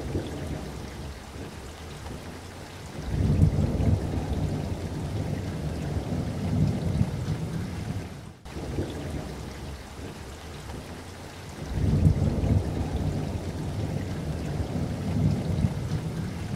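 Heavy rain pouring steadily, with a deep low rumble that swells up twice for several seconds. The sound breaks briefly about halfway through.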